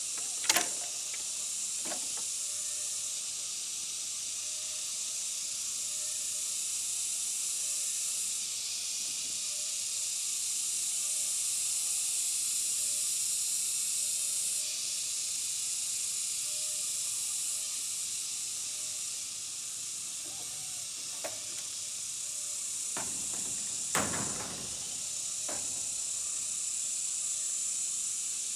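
A steady high-pitched hiss throughout, with a few sharp knocks: two near the start, one around two-thirds of the way in, and a louder one a little later.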